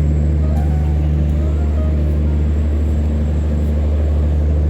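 A train's diesel engine idling at a station platform: a steady, loud low hum, with faint voices in the background.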